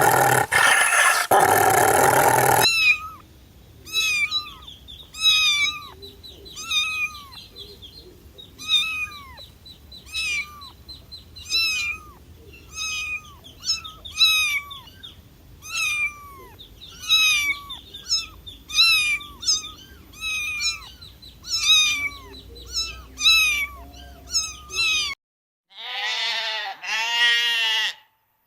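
A cat mewing over and over: short, high calls that each fall in pitch, about one a second. It opens with the end of a loud, rough noisy sound, and near the end two longer, lower calls rise and fall.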